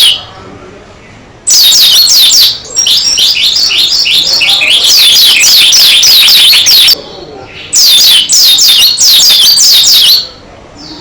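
Pleci dakun white-eye singing loudly in two long runs of fast, high, downward-slurred twittering notes. The first run lasts about five seconds; the second starts after a short pause and lasts about two and a half.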